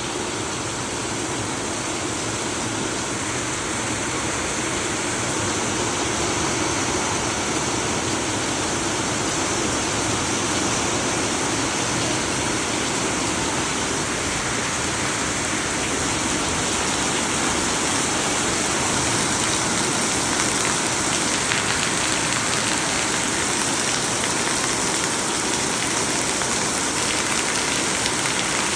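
Heavy downpour of rain falling steadily, a dense, even hiss of rain on surfaces.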